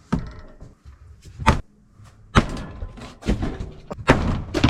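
A series of sharp knocks and thuds, roughly one every second, like doors or hard objects being banged and handled.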